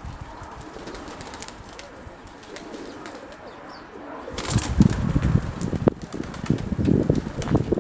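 Pigeons cooing, with gusts of wind buffeting the microphone from about halfway in.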